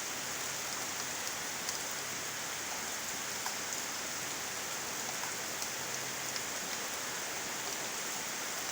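Steady rain from a tropical storm, an even hiss dotted with the sharp ticks of single drops striking.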